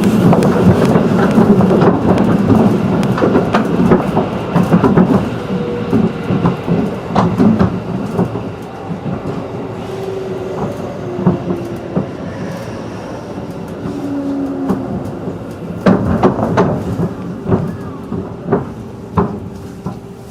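211-series electric train heard from inside the passenger car, slowing down: dense wheel and running noise with clacks over the rail joints fades steadily as it brakes. A few faint short whines come in the middle, and a run of sharp clacks comes near the end.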